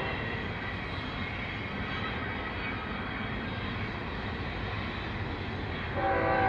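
Steady rumble of a passing train, with a chord-like train horn sounding near the end.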